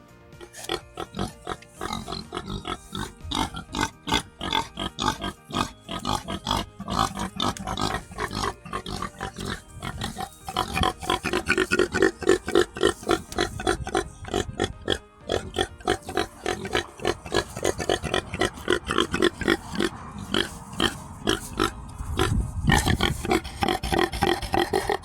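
Pigs grunting and oinking: a dense, continuous run of short grunts.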